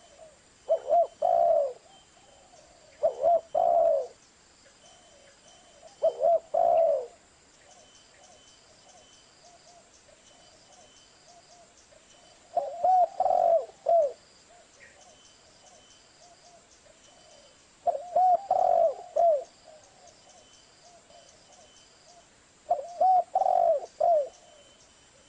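Zebra dove (perkutut) cooing: six short phrases of quick repeated coos, several seconds apart.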